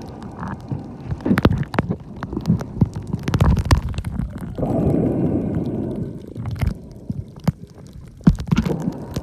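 Muffled underwater sound from a camera held below the surface while snorkeling: water moving with a low rumble and scattered clicks. A louder gurgling rush of water comes about four and a half seconds in and lasts over a second.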